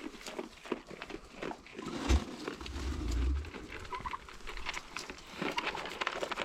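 Pet turkeys and goats eating from the hand, with many small pecking and crunching clicks. There is one sharp thump about two seconds in, then a brief low rumble.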